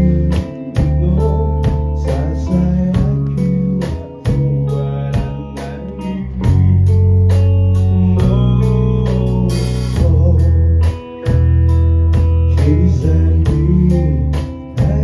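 Live rock band playing a ballad: guitar, heavy bass notes and drums keeping a steady beat.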